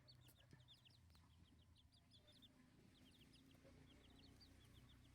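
Chickens peeping faintly: short, high cheeps, several a second, in quick runs with brief gaps.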